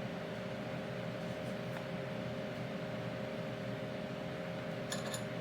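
Steady mechanical hum of background shop machinery such as a fan, with a constant low drone and a faint hiss. A few light clicks sound near the end.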